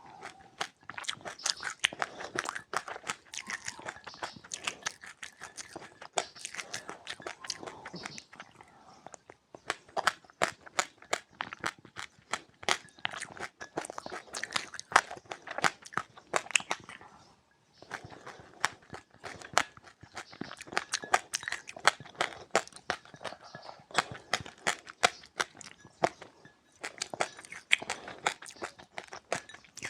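Close-up crunching and chewing of seeds eaten with passionfruit, a rapid irregular crackle of many small crunches. It pauses briefly about a third of the way in, again just past halfway, and once more near the end.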